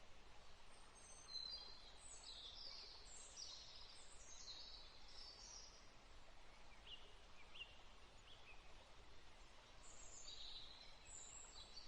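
Faint birdsong: small birds chirping in short high calls, busiest from about a second in to halfway, with a few lone chirps after and another spell near the end, over a faint steady hiss.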